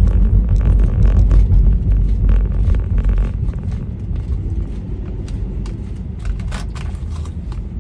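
Road noise inside a moving car: a steady low rumble of tyres and engine, which eases a little about halfway through, with a few faint clicks near the end.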